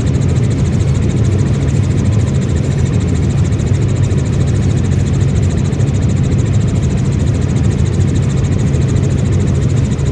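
Helicopter engine and rotor noise, loud and steady without a break.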